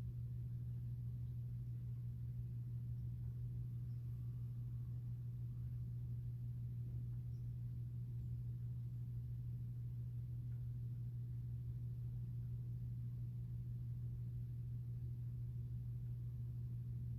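A steady low hum that holds the same pitch and level throughout, with no other sounds.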